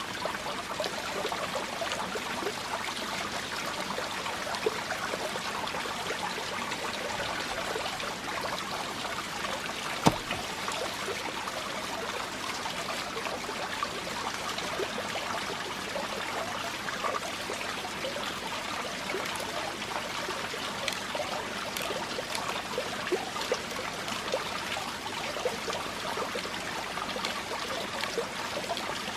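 Steady running water, with a single sharp knock about ten seconds in.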